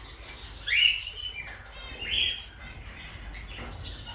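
Parrots calling in an aviary: two loud rising calls, about one second in and again about two seconds in, with fainter chirps between them.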